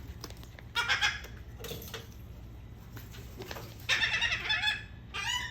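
Gulls calling: a short call about a second in, a longer wavering call around four seconds in, and a brief one near the end.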